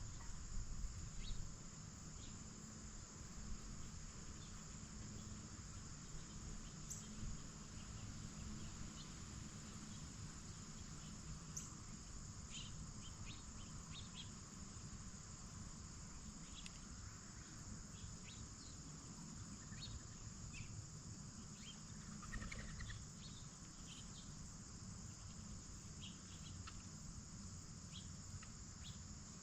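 Crickets chirping in a steady, high, continuous chorus, with scattered short faint ticks and clicks over a low background rumble.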